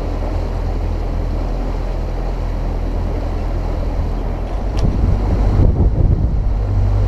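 Mercury outboard motor running on a boat under way during its break-in, with wind buffeting the microphone. The rumble grows louder and rougher about four and a half seconds in.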